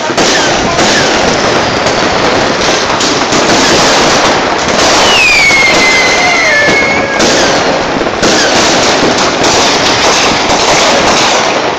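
Many fireworks going off across a city at once: a loud, unbroken din of bangs and crackling. About five seconds in, a firework whistle falls in pitch and then holds for about two seconds.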